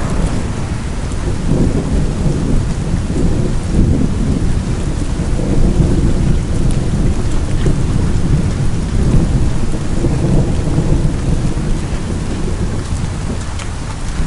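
Heavy rainstorm: a dense downpour over a continuous low rumble, with a few faint sharp ticks of drops or hailstones striking.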